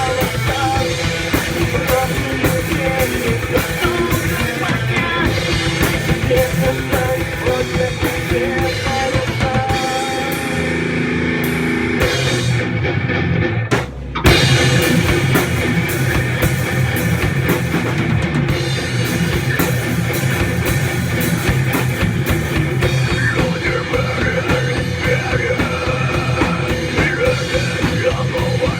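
Heavy metal music: distorted guitars over a driving drum kit, thinning out for a few seconds around the middle, then a short break and the full band crashing back in.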